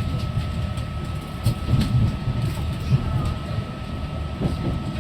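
Inside a moving NI Railways Class 3000 diesel multiple unit: a steady low rumble from the running gear and track, with a thin constant whine and a few light clicks.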